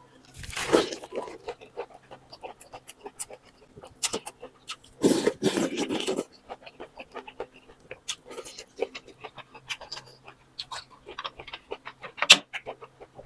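Close-up eating sounds of boat noodles: two long slurps, about half a second in and around five seconds in, between stretches of chewing with many small wet clicks.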